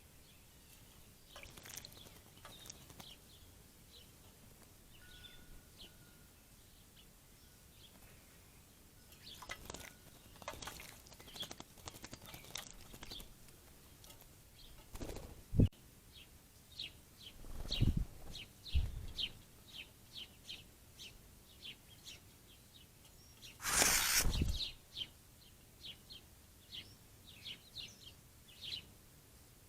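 Small songbirds chirping at a backyard bird bath: short high chirps, scattered at first and then coming two or three a second through the second half. A few low thumps sound past the middle, and one loud noisy burst of about a second follows.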